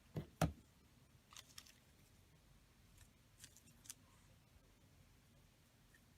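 Craft materials being set down and handled on a work table: two sharp knocks about half a second in, then a few light scattered clicks and snips from paper and tools.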